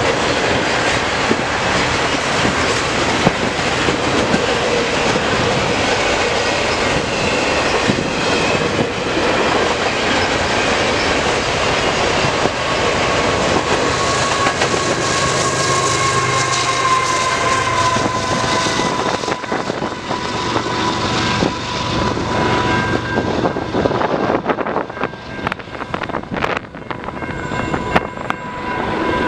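Double-stack intermodal container cars rolling past with steady wheel-on-rail noise. Then a CN diesel locomotive at the rear of the train goes by, adding an engine drone and tones that slide slightly down in pitch as it passes. The noise fades over the last several seconds as the train recedes.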